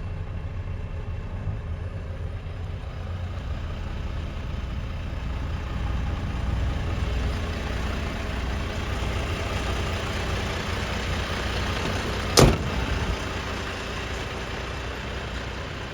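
Volvo FL280 truck's diesel engine idling steadily, growing a little louder about six seconds in. A single sharp knock sounds about twelve seconds in.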